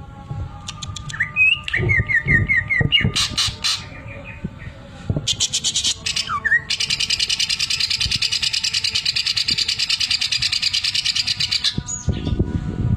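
Greater green leafbird (cucak ijo) singing: sharp chirps and a quick string of falling whistled notes, then, about halfway through, a fast, even rattle lasting about five seconds. That rattle is the 'sewing machine' (mesin jahit) phrase the bird has learned.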